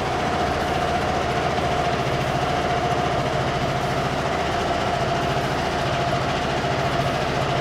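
Honda NSS300 Forza scooter's single-cylinder four-stroke engine idling steadily, with a steady whine over the engine beat.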